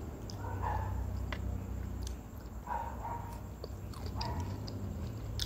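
A person chewing a mouthful of sushi roll, with soft mouth sounds and a few small clicks over a steady low hum.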